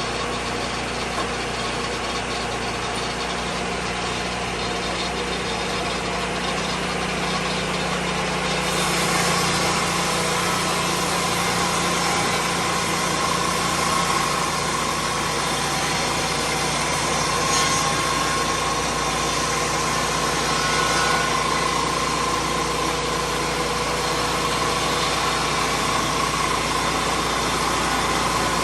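Lucas Mill 10-30 swing-blade sawmill's petrol engine running steadily. About nine seconds in the sound gets a little louder and brighter and stays that way.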